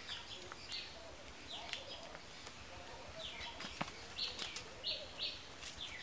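Birds chirping in short repeated high calls, several in a row, with a few faint clicks in the second half.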